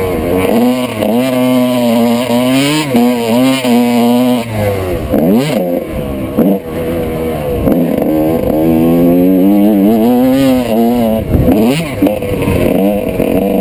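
Two-stroke motocross motorcycle engine under hard riding, revving up and falling back over and over as the throttle is opened and closed, with short drops in pitch between climbs.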